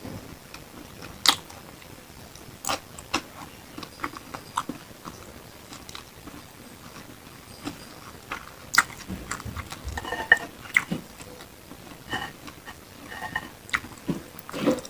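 Close-miked eating sounds of beef satay: irregular wet chewing and biting, with sharp mouth clicks and smacks that come thickest in the second half.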